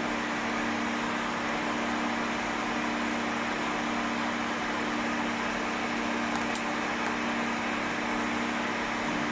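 Pet hair dryer blowing steadily on a low setting: an even rush of air over a constant motor hum.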